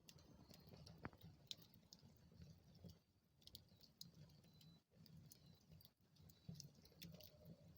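Wood fire burning in a fireplace, crackling faintly: scattered small pops and ticks at irregular times over the low rumble of the flames.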